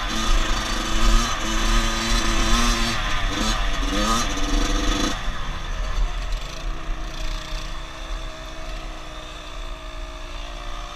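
Dirt bike engine running, its revs rising and falling, then settling into steadier, quieter running about five seconds in.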